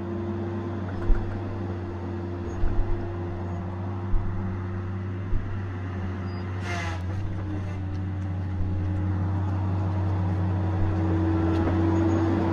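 Tigercat 870C feller buncher's diesel engine running steadily, with a few low thumps in the first half. About seven seconds in there is a brief hiss, and the engine note dips slightly under load before climbing back.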